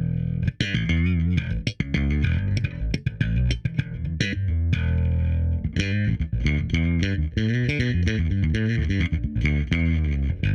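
Music led by an electric bass guitar playing a busy line of many short plucked notes.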